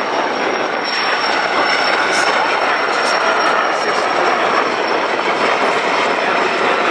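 Firefighting helicopter running close by during its water-drop demo: a loud, steady rush of turbine and rotor noise with a thin, high, steady whine over it.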